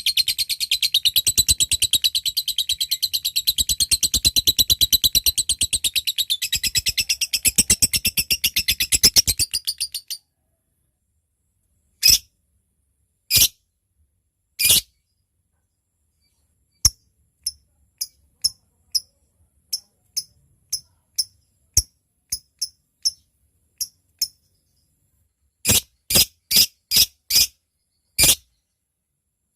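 Lovebird giving a long, fast, high-pitched chattering trill (ngekek) that stops about ten seconds in. It is followed by separate sharp, high ticking chirps (ngetik) a second or so apart, with a quick run of five near the end.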